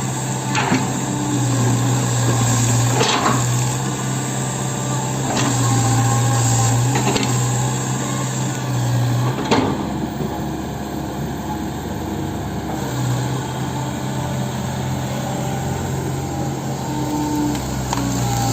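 Hitachi 110M hydraulic excavator's diesel engine running steadily while it works, its note dropping for a few seconds around the middle. Several sharp knocks sound over it.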